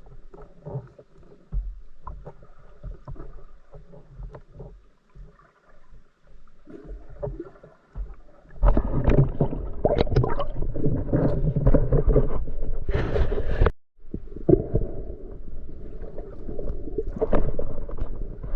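Water sloshing and gurgling against the camera, with scattered knocks at first. About halfway in it turns much louder and rougher, cuts out for a moment, then carries on.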